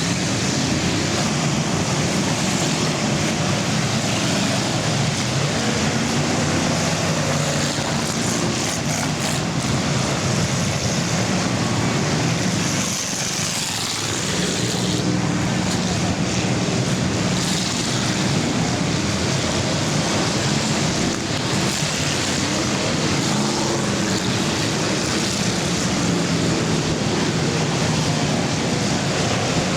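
Many full-size cars' engines running hard together in an enduro race: a steady, loud din of engines and exhaust, with engine notes rising and falling as cars pass.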